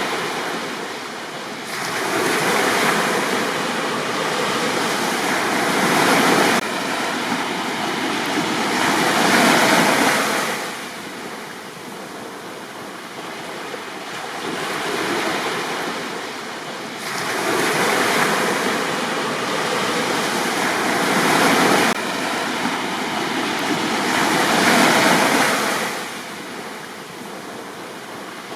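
Sea waves breaking on a beach. The surf swells and falls away in surges several seconds long.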